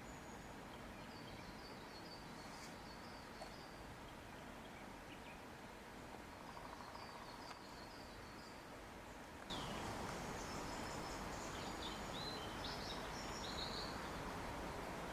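Steady outdoor nature ambience: a soft, even hiss with distant high chirping calls in short runs. About halfway through it cuts to a louder, fuller hiss with different, brighter chirps.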